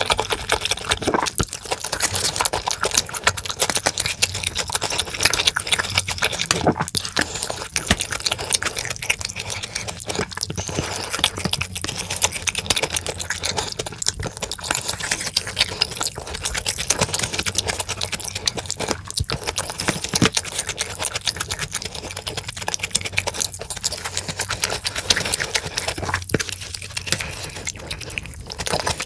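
Close-miked eating sounds: a steady run of wet chewing, smacking and crackling as sweet-and-sour pork and black-bean-sauce noodles are chewed, without pause.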